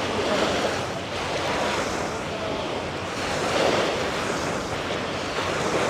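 Ocean surf breaking and washing up on a beach, in slow swells, with wind buffeting the microphone.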